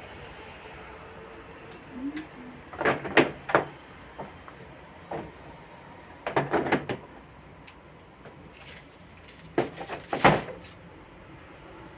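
Clattering and knocking as things in a refrigerator are handled: three short bursts of sharp knocks a few seconds apart, the loudest near the end.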